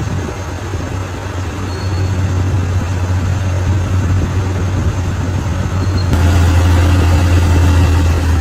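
Bulldozer's diesel engine running under load with a steady low drone, becoming louder and fuller about six seconds in.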